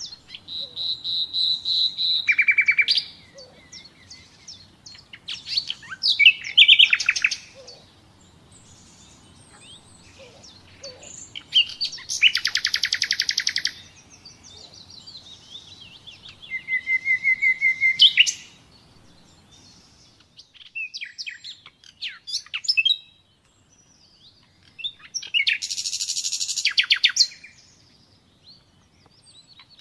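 Common nightingale singing: about six varied song phrases separated by short pauses, including a swelling series of whistled notes, fast rattling trills and a run of repeated notes.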